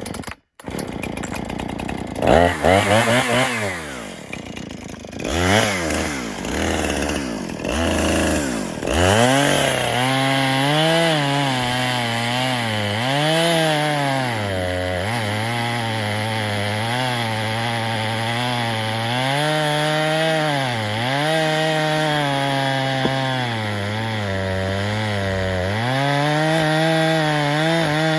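Two-stroke chainsaw revved several times, then cutting into a large dead tree trunk. The engine pitch dips and recovers again and again as the chain bites under load, and climbs near the end.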